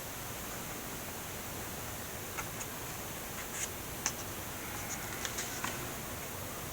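Pages of a photo book being handled and turned, a few soft paper rustles and small ticks over a steady hiss.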